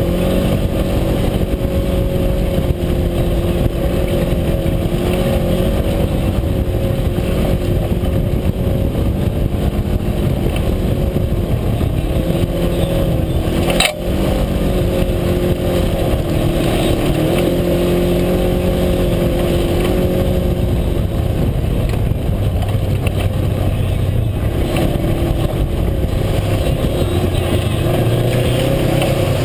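UTV engine running steadily under way, its pitch rising and falling a little with the throttle, with one sharp knock about halfway through.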